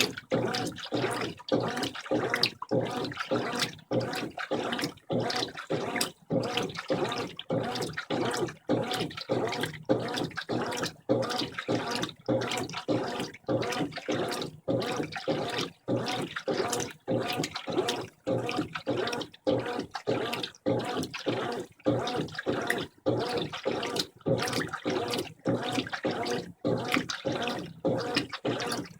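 Brastemp 15 kg top-loading washing machine agitating its load in the rinse stage: water churning and sloshing in an even rhythm, with brief pauses about three times every two seconds as the wash motion reverses.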